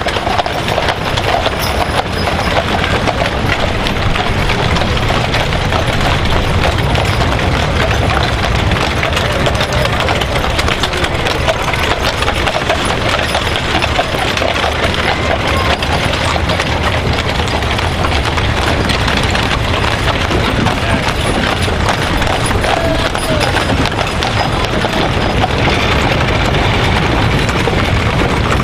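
Horses' hooves clip-clopping as a horse-drawn wagon train moves along, over a dense, steady background.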